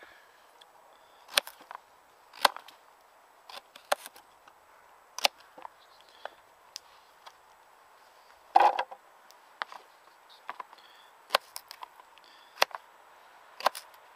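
Knife chopping a carrot into chunks on a cutting board: sharp knocks about once a second, with one longer, louder knock a little past halfway.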